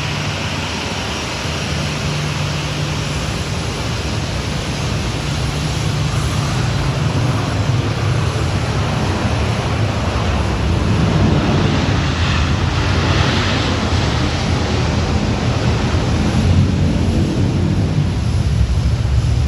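Aircraft engines running at close range: a loud steady noise over a low hum, gradually getting louder.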